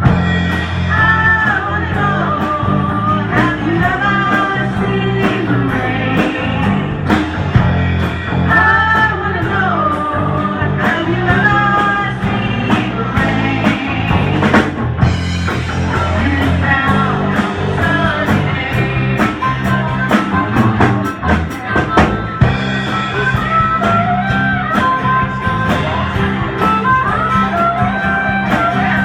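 Rock band playing with a steady beat on electric guitar, bass and drum kit, with a melody line gliding above.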